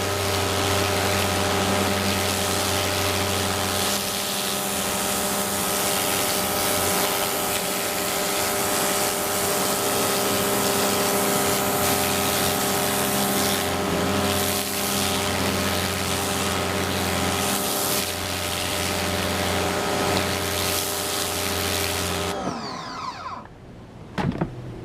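Greenworks 1600 psi electric pressure washer running, its electric motor and pump humming steadily under the hiss of the water spray. The sound cuts off suddenly near the end.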